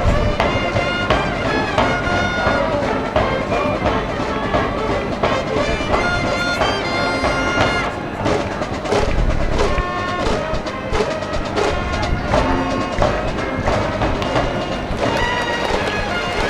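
School brass band playing a baseball cheering song, with brass melody over a steady drum beat.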